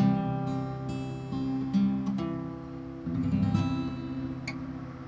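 Acoustic guitar strummed in the song's closing bars: a handful of chords struck and left to ring, fading away toward the end.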